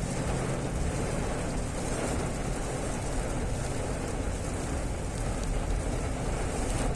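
Fairly heavy rain falling: a steady, even hiss of rain with a low rumble underneath.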